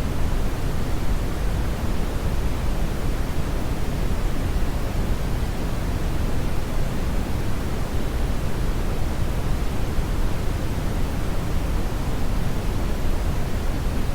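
Steady brown noise: a strong, even rumble-like hiss weighted toward the low end, with no changes or events.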